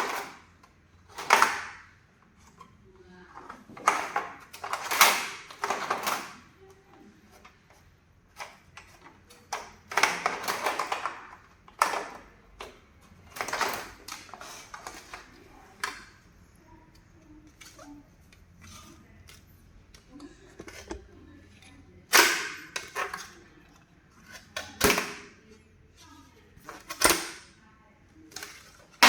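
Flip placard set being handled: stiff placard pages flipped over, a dozen or so irregular swishes and sharp clacks, with a pause of several seconds in the middle.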